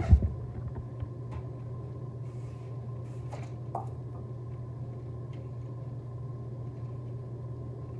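Steady low hum of room background noise with a faint high steady tone, a short low thump at the very start and a couple of faint clicks a few seconds in.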